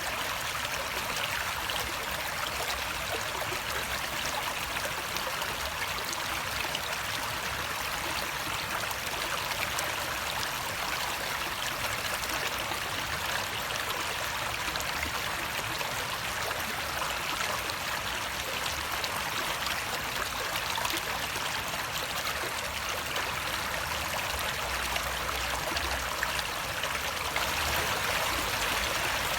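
Running water flowing steadily, a continuous rushing and trickling without breaks.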